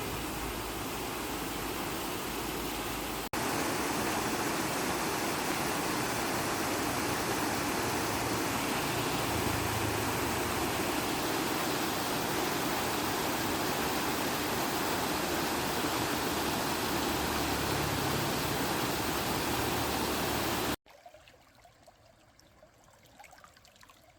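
Fast-flowing water rushing below a dam, a steady loud rush. It cuts off suddenly near the end, leaving only a faint hush.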